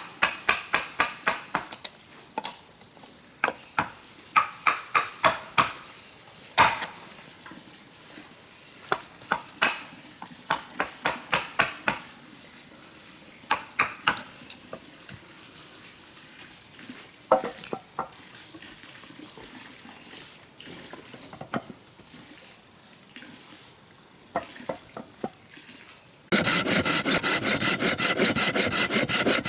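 Runs of short, sharp tool strokes on wood, several quick strokes at a time with pauses between. About 26 seconds in, a saw starts cutting through wood, much louder, with fast, even strokes.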